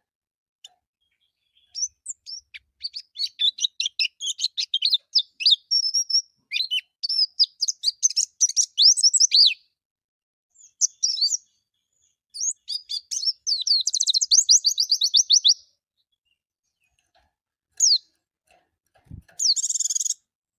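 White-eye (pleci) song: fast, high twittering phrases made of rapid chirps. It comes in bursts of a few seconds separated by short pauses.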